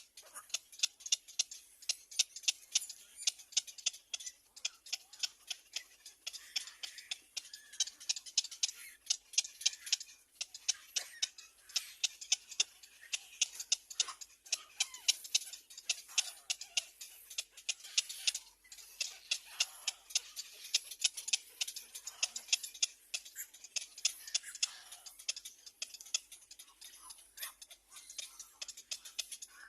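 Small birds giving rapid, short high-pitched chips, about three or four a second and unevenly spaced, with a few faint higher calls between them.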